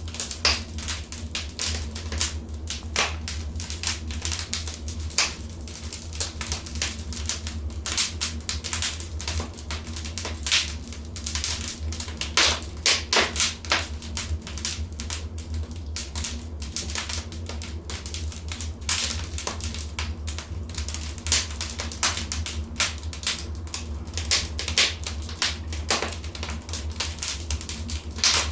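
Wood fire in a fireplace crackling: irregular sharp pops and snaps, some close together in clusters, over a steady low rumble.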